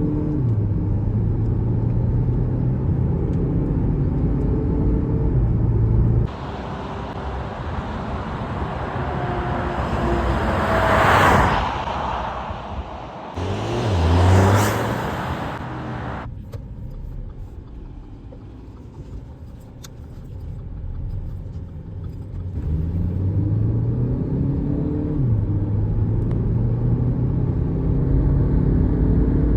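Audi Q5 2.0 TDI four-cylinder turbodiesel accelerating hard, its pitch climbing and dropping back at each gear change. About a third of the way in the sound switches to a louder rushing noise that swells twice, then fades. Near the end the stepped engine climb returns.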